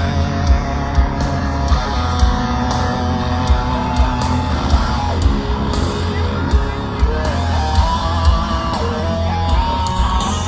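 Live rock band playing: distorted electric guitars and bass over drums keeping a steady beat of about two hits a second.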